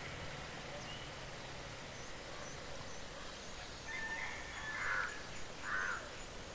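Birds calling: a short run of harsh calls about four seconds in, the two loudest near the end, over steady roadside noise. A passing vehicle's engine hum fades out in the first two seconds.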